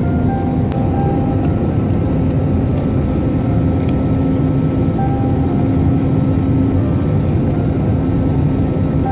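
Airbus A320neo cabin noise during descent: a steady rush of airflow with the engines' low hum running under it.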